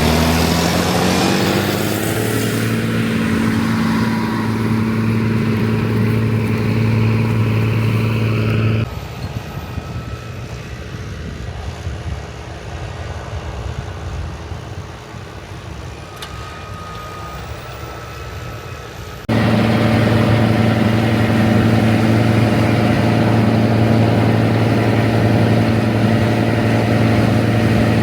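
Rába 250's diesel engine running: its revs fall off in the first couple of seconds, then it settles to a steady even run. About nine seconds in, the sound drops suddenly to a much quieter, thinner level, and about ten seconds later it returns just as suddenly to full strength.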